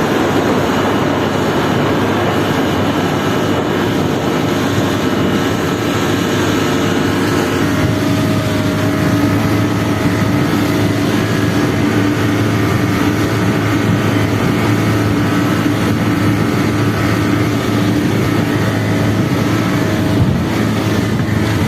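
Boat engine running steadily, with a hiss of wind and water. The engine's pitch changes about eight seconds in and then holds steady.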